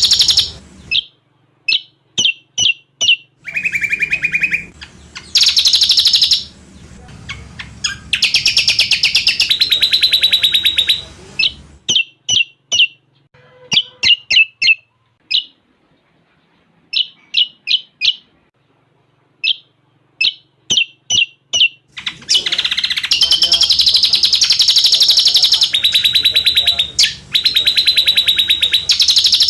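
Cucak combok song in fast, varied phrases: long passages of rapid, dense trilling alternate with runs of short, sharp separate chirps, with a pause of a couple of seconds in the middle.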